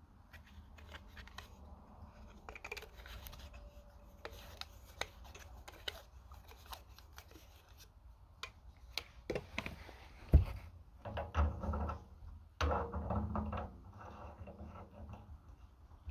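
Hand work on plumbing fittings: scraping, rubbing and small clicks of tools and parts being handled. There is one sharp knock about ten seconds in, and a louder stretch of rubbing and knocking follows it.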